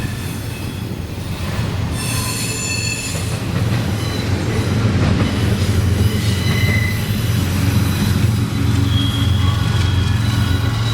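Freight train rolling past, its steel wheels squealing against the rails in short high-pitched tones over a steady low rumble that grows louder about halfway through.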